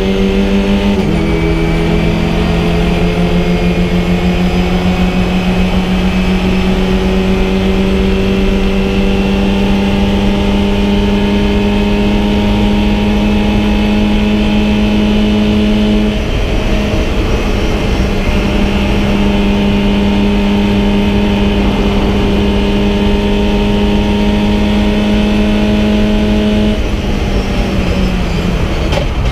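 VW Fun Cup race car's engine at racing speed, heard from inside the cockpit. The pitch drops once about a second in, like an upshift, then climbs slowly under load. There is a brief break about halfway through, then the note holds high and falls steadily near the end.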